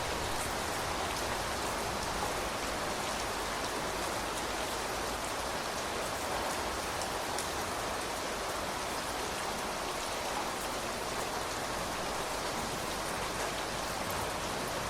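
Steady rain falling, an even patter of drops on surfaces with faint individual drop ticks.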